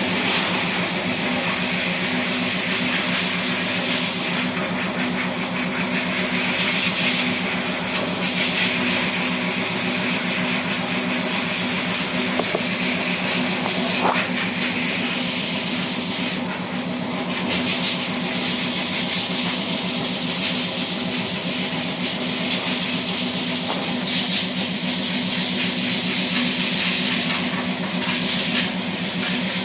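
A machine running steadily with a low, even hum and a constant loud hiss over it.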